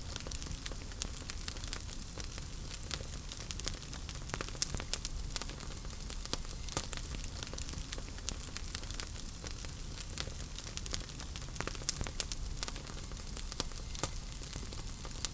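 Wood fire crackling steadily, with irregular sharp pops and snaps over a low rumble and hiss of burning logs.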